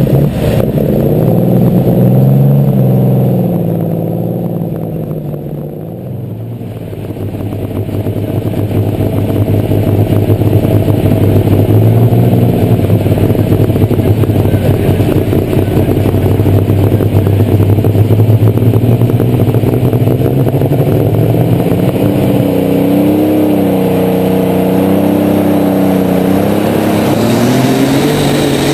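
Light super stock pulling tractor's engine heard from on board, running loud. It eases off about four seconds in, then builds back up and is held hard, with its pitch bending up and down near the end.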